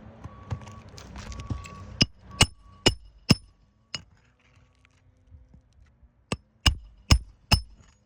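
Hammer driving roofing nails: two runs of four sharp, ringing strikes a little under half a second apart, with a single strike between them. A vehicle's reversing beeper sounds in the first second or so.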